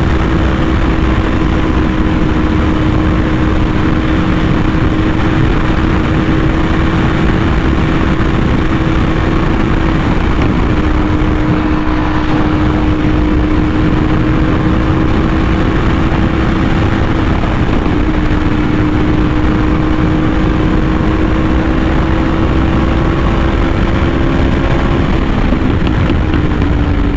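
Yamaha R1M's crossplane inline-four through an SC Project exhaust, cruising at a steady, unchanging engine note, over a heavy rush of wind noise. Near the end the note eases down a little as the throttle comes off.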